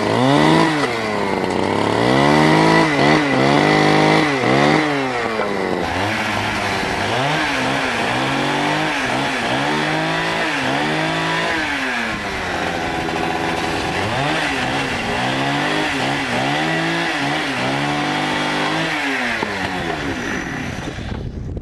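Two-stroke chainsaw running, its engine pitch rising and falling over and over as the throttle is worked, then cutting off near the end.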